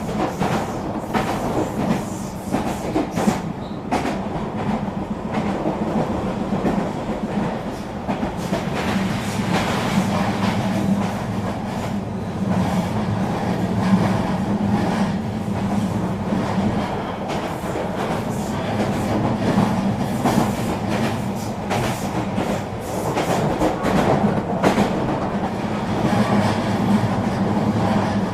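Eurobahn regional train running along the track: a steady rolling rumble with a hum, and wheels clicking over rail joints at uneven intervals.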